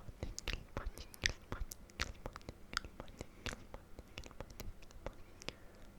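Close-miked ASMR mouth sounds: irregular wet clicks and smacks of the lips and tongue.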